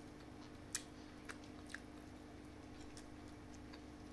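A person quietly chewing a mouthful of fish and rice, with a few small clicks and mouth sounds, the sharpest about three quarters of a second in, over a low steady hum.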